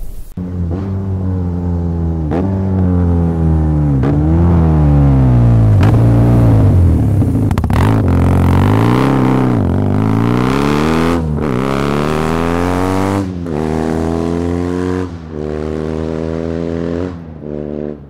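BMW R nineT's boxer-twin engine through its aftermarket exhaust, revving hard through the gears. Its pitch climbs and then drops sharply at each shift, several times over. The bike passes close by about midway, and the sound fades near the end.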